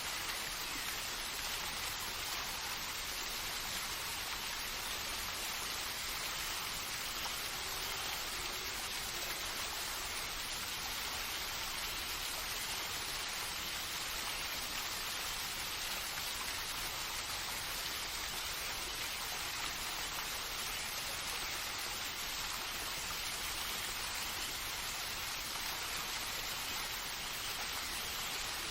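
Steady rain ambience: an even, unbroken hiss of falling water with no single drops, calls or changes standing out.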